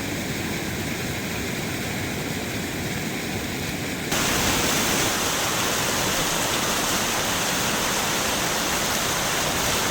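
Steady rushing of fast, high river water. The rush jumps abruptly louder and brighter about four seconds in, then holds steady.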